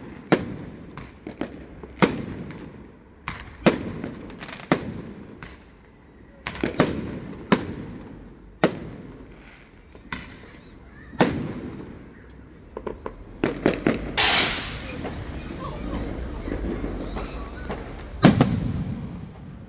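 Fireworks going off: a run of sharp, irregular bangs with echoing tails, a hissing burst about two-thirds of the way in, and a loud bang near the end.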